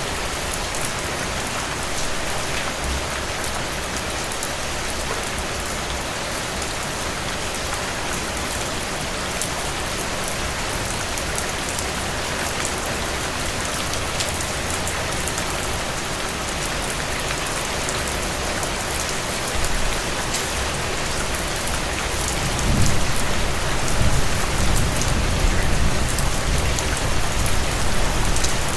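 Steady heavy rain falling on a surface, a dense even hiss with individual drops ticking through it. About two-thirds of the way in, a low rumble swells in underneath and stays.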